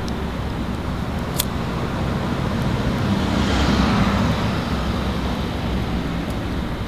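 Road traffic noise, with a vehicle passing that swells to its loudest about three and a half seconds in and then fades.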